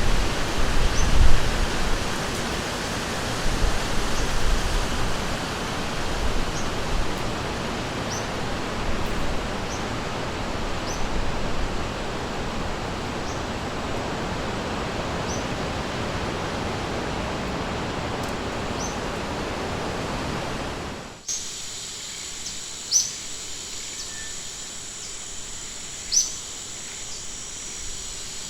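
Rushing river water, a dense steady wash, with short high bird chirps every second or two. About 21 seconds in, it cuts abruptly to a quieter forest ambience with a steady high insect drone and sharper, louder chirps.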